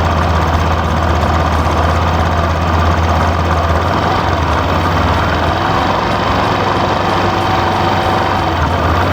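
Engine of a radio-controlled construction machine idling steadily: an unbroken deep drone with no revving.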